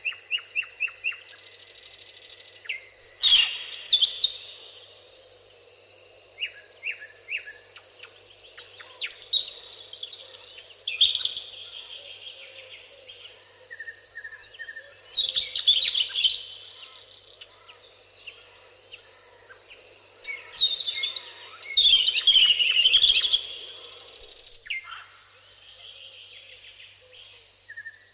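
Several songbirds singing in a meadow: overlapping chirps, whistles and trills, with louder song phrases returning every several seconds, over a steady high-pitched tone.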